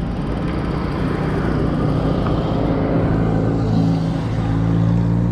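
Road noise with a rumble over the microphone, and a motor vehicle engine's steady hum that comes up about three seconds in.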